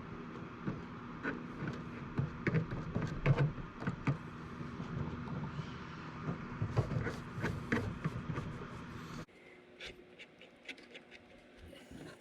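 Irregular light clicks and taps of small plastic RC body parts being handled during gluing, over a steady background hum that cuts off abruptly about nine seconds in, leaving only a few faint clicks.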